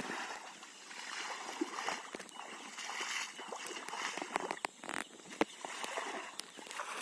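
River water splashing and sloshing, with scattered sharp clicks and knocks, the strongest a little past the middle.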